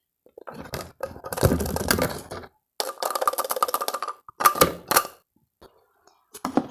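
Spoon scraping and knocking against a plastic food-processor bowl and container while chopped seasoning vegetables are spooned out, in short irregular stretches of clattering and clicks.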